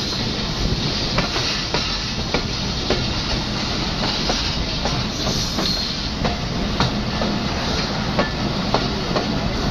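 Passenger train running, heard at an open carriage door: a steady rumble and rushing noise with repeated sharp clacks of the wheels over rail joints.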